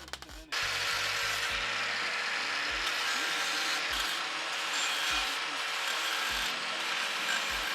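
A power tool cutting metal pipe: a loud, steady hiss-like cutting noise that starts about half a second in and does not let up. A faint low thump comes about every second underneath it.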